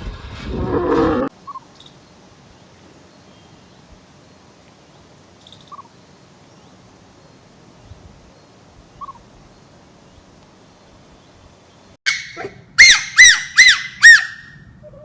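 A bird squawks loudly about five times in quick succession near the end, after a quiet stretch with a few faint chirps. A noisier sound cuts off abruptly a second in.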